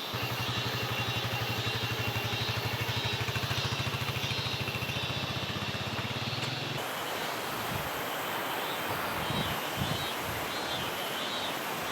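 A small engine idling with a fast, even putter, cut off abruptly about seven seconds in, over a steady chirring of insects.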